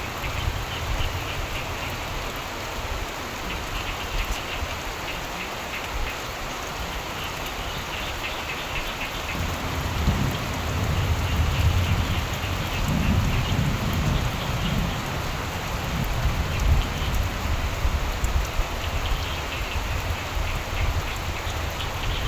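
Steady rain with frogs croaking in patches of quick pulsed calls. Low thunder rolls in about ten seconds in and rumbles for several seconds before fading back under the rain.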